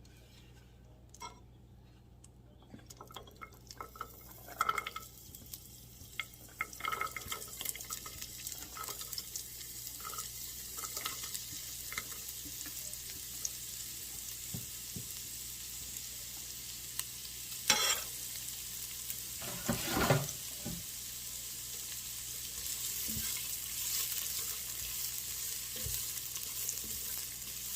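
Chopped carrots sizzling in hot chicken drippings in a pot while being stirred, with scattered clicks and a couple of louder knocks of the utensil against the pot. The sizzle builds up after the first few seconds and then holds steady.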